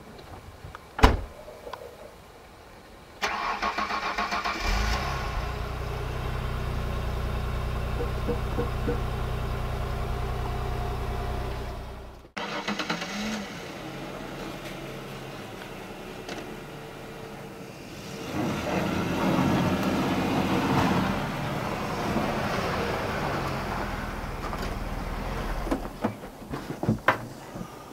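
A vehicle engine starts a few seconds in and runs steadily; the sound breaks off abruptly about halfway, followed by a quieter stretch and then a louder, noisier one.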